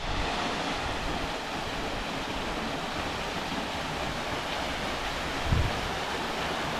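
Waterfall rushing, a steady even roar of falling water, with a brief low thump about five and a half seconds in.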